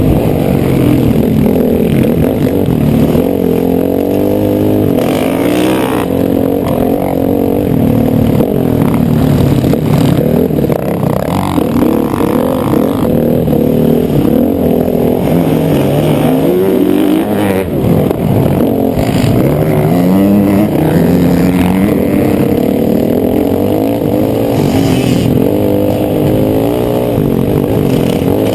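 Motocross bike engine revving continuously, its pitch rising and falling over and over with throttle and gear changes.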